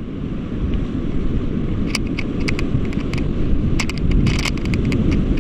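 Loud rushing rumble of a raft running river rapids, with wind buffeting the microphone. Scattered sharp knocks and splashes come about two seconds in and again in a cluster near the end.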